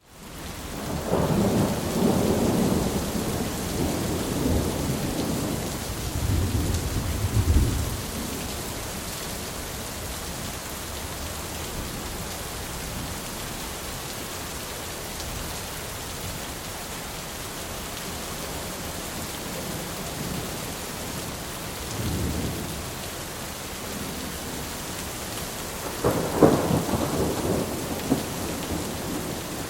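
Thunderstorm: steady rain falling, with rolling thunder. A long rumble fills the first several seconds, a short one comes about two-thirds through, and another peal rolls near the end.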